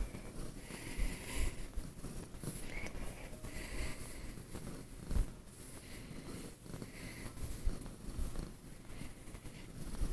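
Domestic cat purring close up, a continuous low rumble, with a few short knocks of handling scattered through it.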